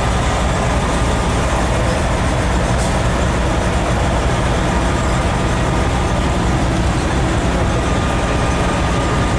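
A truck's engine idling steadily: a constant low hum with a dense rushing noise over it that does not change.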